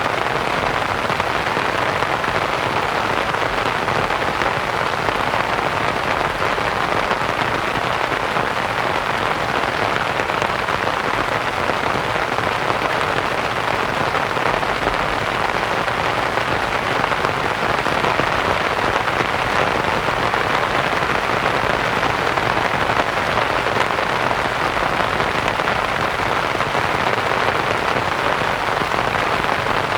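Steady rain pattering on a canvas tent, blended with soft white noise, with no change in level.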